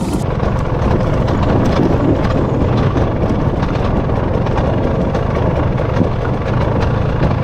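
Dirt bike engine running steadily as the bike rides a trail, heard through an action camera with wind buffeting the microphone. A brief knock sounds about six seconds in.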